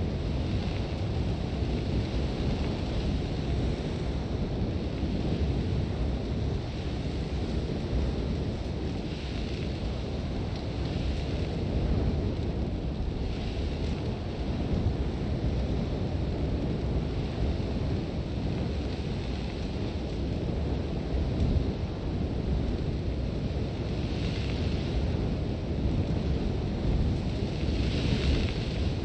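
Sandstorm wind blowing steadily with a deep rush, and a hiss of blown sand that swells up and dies away in gusts several times.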